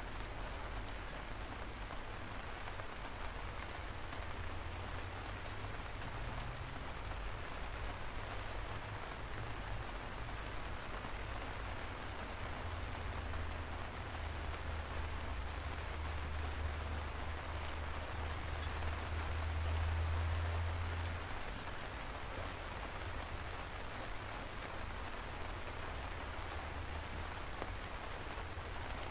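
Steady rain falling in an even, unbroken hiss, with a few separate drop clicks. A low rumble swells through the middle and dies away about two-thirds of the way through.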